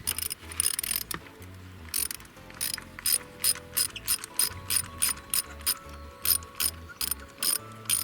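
Socket ratchet wrench clicking, at about three clicks a second, as a spark plug is unscrewed from the engine's cylinder head.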